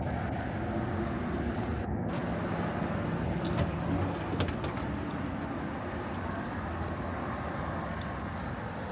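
Hot rod's flathead engine idling steadily with a low, even rumble, with a couple of light clicks about four seconds in.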